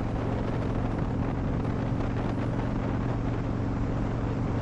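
Harley-Davidson Dyna Wide Glide's 103-cubic-inch V-twin with a Vance & Hines slip-on exhaust running at a steady cruise, its note holding even, with wind rushing past the helmet microphone.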